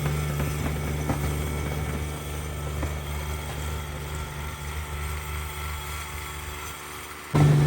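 Cub Cadet 1782 garden tractor engine running steadily with a constant hum. It fades a little, then comes back suddenly louder near the end.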